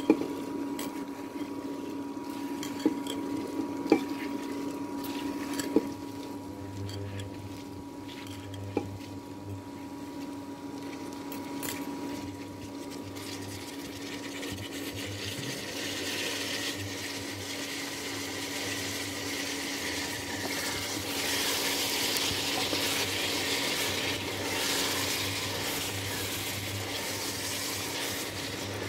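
Soaked whole black gram (urad dal) stirred into hot oil with onions and chillies: a spoon knocks on the pan a few times in the first several seconds, then a sizzling hiss builds from about halfway as the dal heats. A steady low hum runs underneath.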